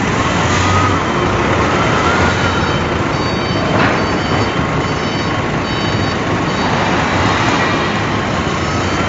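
Loud, steady industrial machinery noise, with a short high beep repeating about once a second and a sharp knock about four seconds in.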